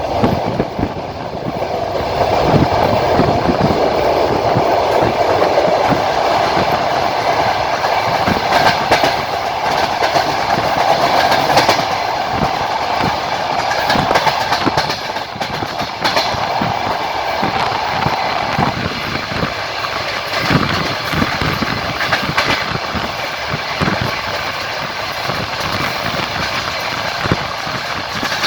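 Passenger train wheels clattering over rail joints, heard from inside the carriage at the window: a steady run of knocks over rolling noise. Under it runs a droning tone that cuts off about two-thirds of the way through.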